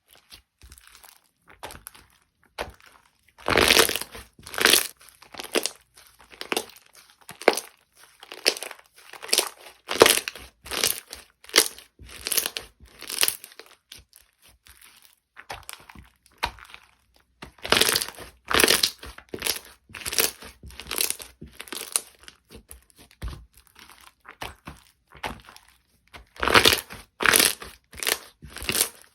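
Slime being squeezed, pressed and stretched by hand, crackling and popping in irregular bursts about once or twice a second.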